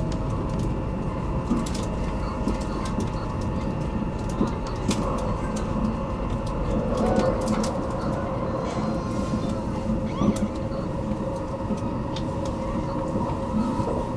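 Inside a running Stockholm commuter train: a steady rumble with a faint steady whine and scattered short clicks and rattles.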